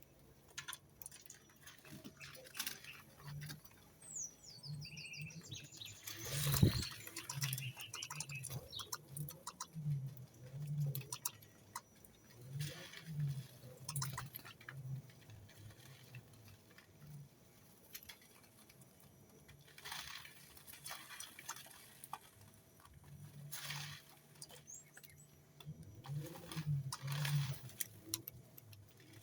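Birds: a brief burst of high chirping about four seconds in, amid scattered light clicks and patter, with low pulsing sounds repeating throughout.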